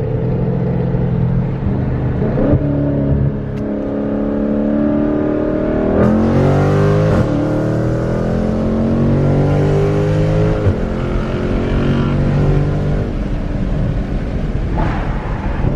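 Car engine pulling hard under full acceleration, its note climbing through the revs and dropping back at each of several gear changes.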